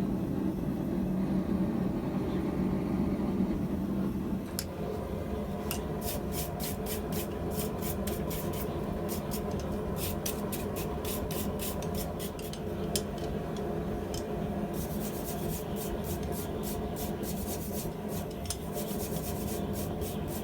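Quick, evenly repeated scraping strokes of a hand tool over steel tongs, coming in runs of several strokes a second, over a steady low hum that drops about four seconds in.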